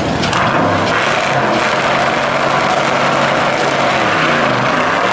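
Two drag-racing cars, an early Corvette and a mid-1960s Pontiac, running loudly at the starting line while staged, a steady engine drone. The engine note sags and comes back up near the end.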